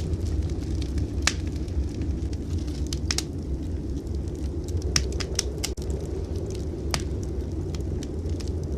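Wood fire crackling in a fireplace, with a handful of sharp, irregular pops, over a steady low rush of blizzard wind.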